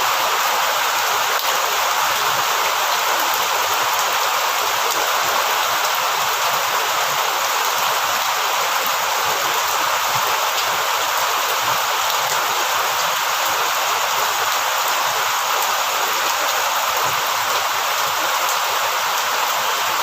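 Heavy rain falling steadily, an even wash of noise that does not let up.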